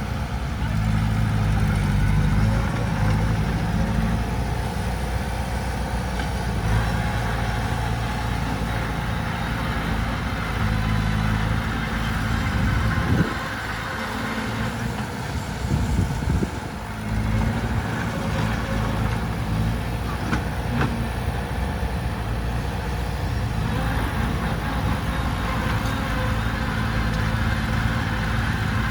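Heavy diesel engine of a bulldozer or dump truck running steadily. Its note dips and shifts briefly partway through, then settles back.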